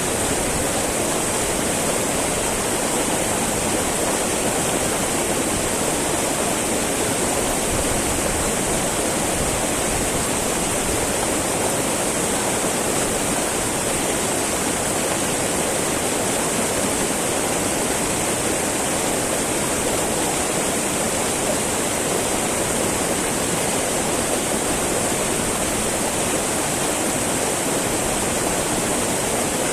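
Small mountain river babbling over rocks, a steady rush of flowing water with no change in level.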